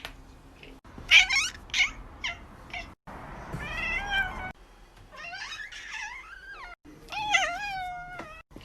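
Cats meowing: a string of separate drawn-out meows that bend up and down in pitch, broken off suddenly several times.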